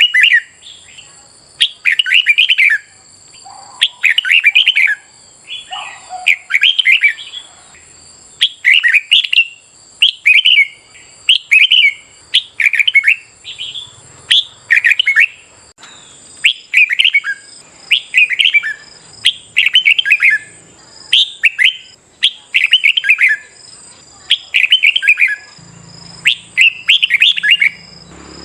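Red-whiskered bulbul singing: short, bright, warbled phrases repeated in quick succession, about one each second.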